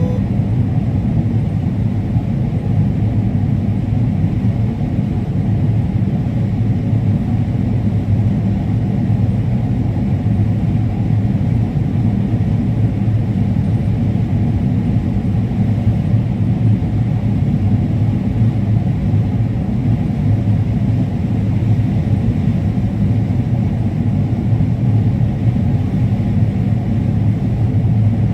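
A large engine running at a steady speed: a loud, even low drone that does not change.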